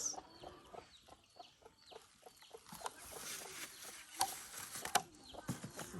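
Chickens clucking and peeping faintly, with a few sharp clicks scattered through.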